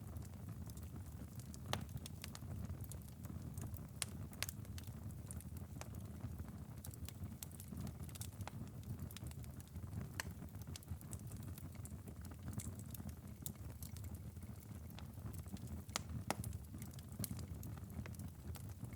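Wood fire burned down to a glowing ember bed, with a soft low rumble and scattered sharp crackles and pops.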